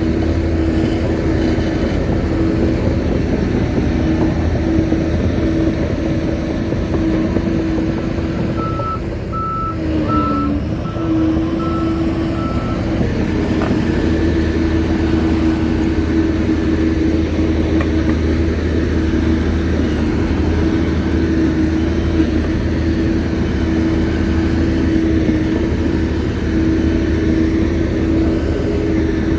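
Shantui bulldozer's diesel engine running steadily while working, its pitch dipping briefly about ten seconds in. A reversing alarm beeps several times in an even rhythm for about four seconds at the same point.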